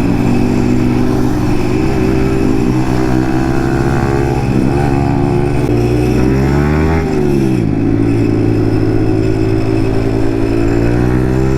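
Yamaha MT-15's single-cylinder 155 cc engine through an aftermarket Akrapovic full exhaust, running loud on the move. The revs climb a few seconds in, rise again, then drop back sharply about seven seconds in.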